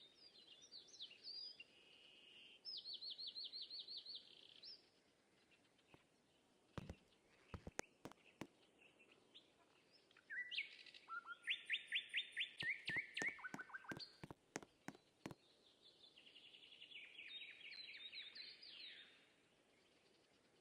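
A songbird singing several rapid trilled phrases of repeated high notes with pauses between them, and a few faint clicks partway through.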